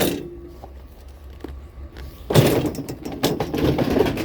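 Low steady rumble of an idling vehicle, with a clatter of knocks and scraping about halfway through as a curbside bicycle is picked up and handled.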